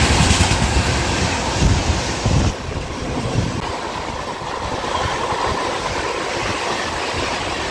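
An Indian express train passing close by, its coaches' wheels clattering over the rail joints. Heavy low thuds come in the first couple of seconds, then an even clatter.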